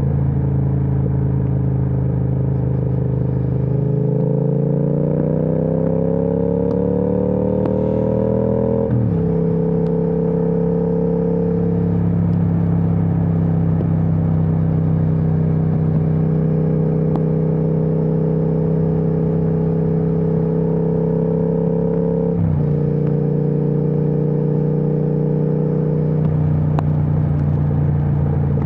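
Triumph Speed Twin 1200's 1200 cc parallel-twin engine running through an aftermarket Vance & Hines exhaust. The revs rise steadily for about five seconds under acceleration, then fall sharply at a gear change about nine seconds in. It holds a steady cruise, with another sharp drop in pitch at a shift later on.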